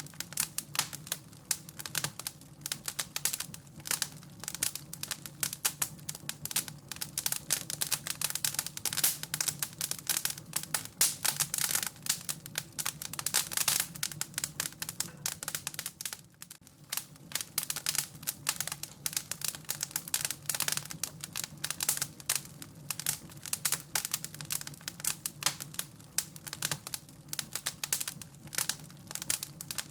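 Wood fire crackling, with quick irregular snaps and pops over a low steady rumble, easing off briefly a little past halfway.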